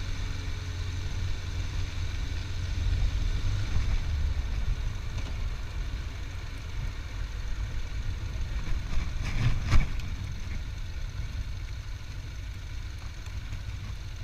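Motorcycle engine running steadily at low speed during a ride, under a heavy low rumble. A single sharp knock comes a little under ten seconds in.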